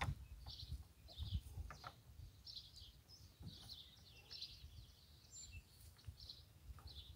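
Small birds chirping in the background, a steady scatter of short high chirps, with faint irregular low thumps and rustling.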